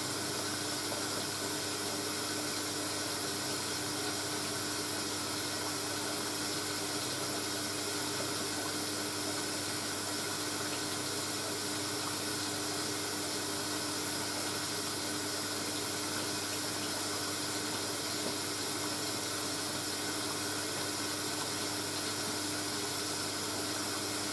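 Vintage Hoover washing machine taking in water for a rinse: a fast, steady rush of water with a steady low hum under it.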